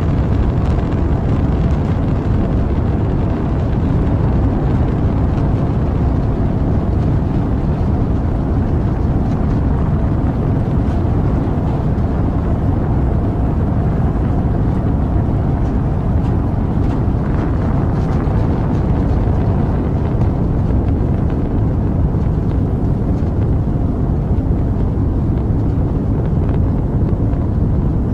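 Rocket engines during launch: a loud, steady, deep rumbling roar.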